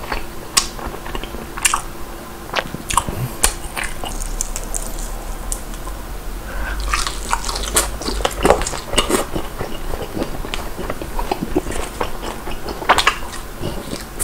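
A person biting and chewing crispy-battered Korean old-fashioned whole fried chicken, with many sharp crackles of the crust. The crackling is busiest about halfway through and again near the end.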